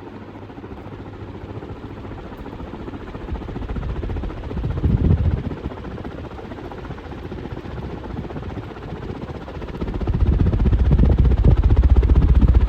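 Westinghouse Industrial 48-inch ceiling fan running at its highest speed, a steady whooshing hum of blades and motor. It swells louder in the low end about four seconds in, and again from about ten seconds on.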